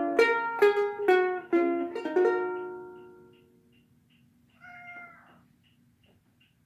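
Ukulele plucking the last notes of a song, ringing out and fading away by about three seconds in. About five seconds in comes a short animal call, pitched like a cat's meow. Faint, even ticking runs underneath at about two to three ticks a second.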